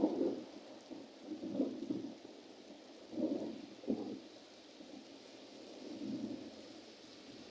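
Thunder rumbling during a thunderstorm: a loud roll fading away in the first second, then fainter rolls about a second and a half in, around three to four seconds in with a short sharp crack, and again near the end, over a faint hiss of rain.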